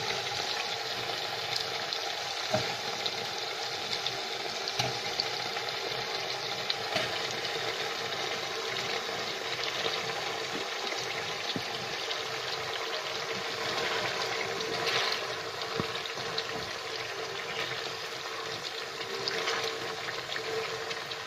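Stuffed whole brinjals sizzling and bubbling as they fry in hot oil in a kadai, a steady crackle with a few light knocks as they are placed and moved.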